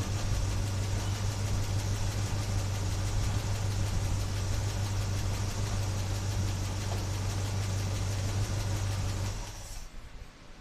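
A 1976 Chevy Blazer's engine running steadily at idle, then shut off about nine and a half seconds in.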